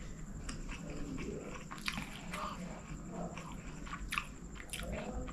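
Close-up mouth sounds of a man chewing a mouthful of chicken rice with his lips closed: irregular clicks and smacks of the jaw, tongue and lips, a few sharper ones about two and four seconds in.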